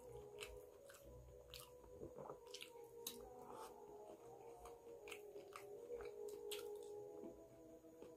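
A person eating rice and potato curry by hand, chewing close to the microphone: faint, irregular wet mouth clicks and smacks.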